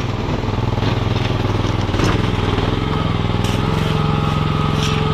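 Mini skid steer engine running steadily, stepping up a little in pitch about three and a half seconds in. A single knock about two seconds in.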